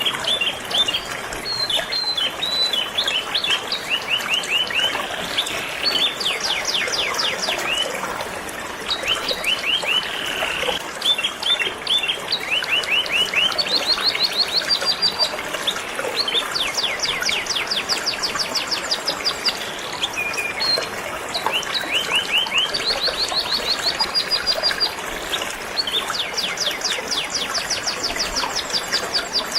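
Canary singing: long runs of rapid repeated trill notes and chirps, one run after another, over the steady rush of flowing river water.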